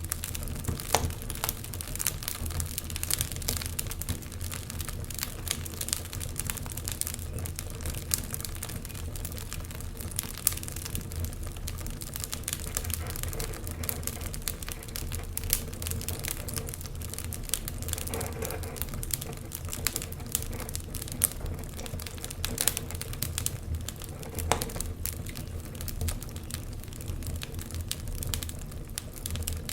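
Wood fire crackling, with frequent sharp snaps and pops over a steady low rumble.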